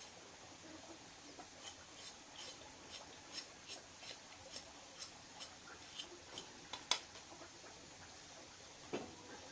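A run of light, sharp clicks or taps, about two to three a second, the loudest just before seven seconds in, followed near the end by one duller thump.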